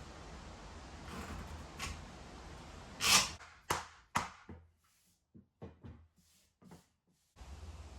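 A run of hard knocks, the loudest about three seconds in, then two more strong knocks and several lighter taps, over a steady hiss.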